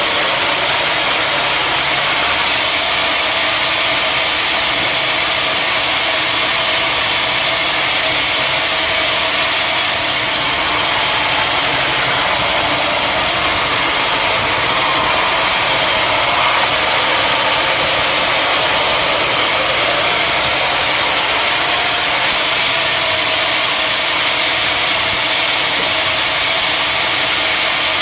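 Sawmill saw running steadily, a loud, even mechanical noise.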